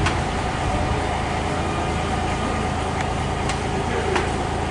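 Diesel-hauled passenger train pulling away into a tunnel: a steady engine rumble with a few sharp clicks.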